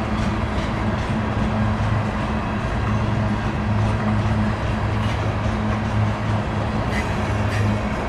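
A loaded coal train rolling slowly past, with a steady low hum under the noise of the cars and a couple of sharp wheel clicks near the end.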